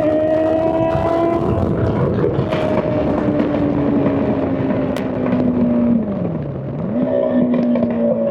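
Straight-piped Honda CBR600 inline-four running at steady high revs, its pitch easing slowly, then dropping sharply about six seconds in before picking straight back up.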